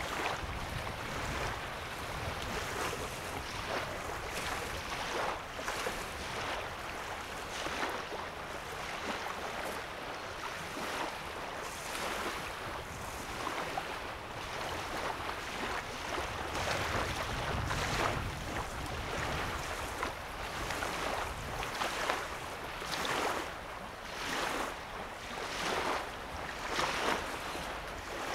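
Small wavelets lapping on a sandy lake shore, a soft splash every second or so. A low rumble swells and fades underneath at times.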